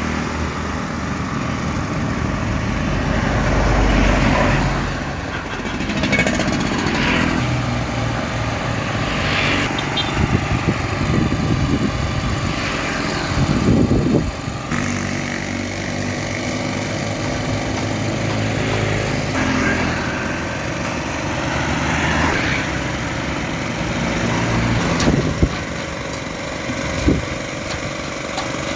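Motor engines running steadily, with several vehicles swelling past, and two sharp knocks near the end.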